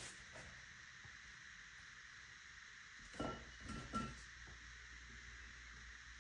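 Near-quiet background with a few short, soft knocks and clicks a little past halfway, from things being handled.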